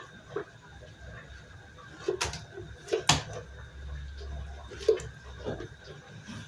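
A few scattered knocks and clinks of kitchen bowls and utensils while cake batter is being handled, the sharpest about three seconds in and about five seconds in.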